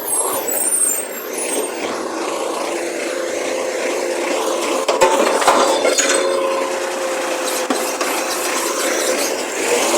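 Recycling truck working a bin: a steady hydraulic whine under rattling and scraping of recyclables, with a few sharp knocks about halfway.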